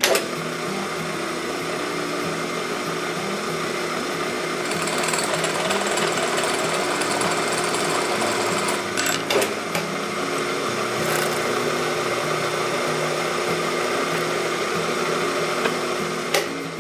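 A metalworking machine tool runs steadily under load, starting abruptly and cutting off near the end, with a faint high whine added for a few seconds in the middle.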